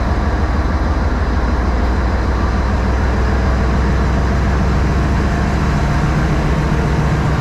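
Locomotive engines running at a steady idle close by: a loud, continuous low rumble, its hum growing a little stronger about six seconds in.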